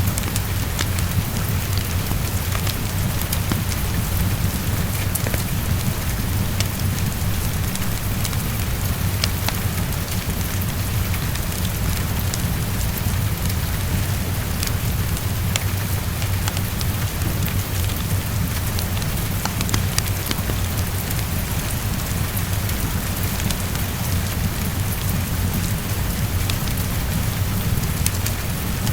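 Heavy rain tapping against a window, mixed with a crackling fireplace: a steady hiss over a low rumble, with scattered sharp ticks throughout.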